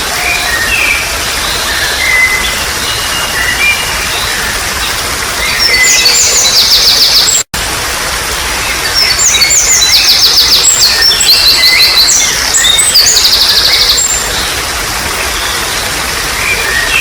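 Steady trickling water with songbirds calling over it. A bird's rapid, high trilling phrases are loudest from about five and a half seconds in and again from about nine to fourteen seconds. The sound cuts out for an instant near the middle.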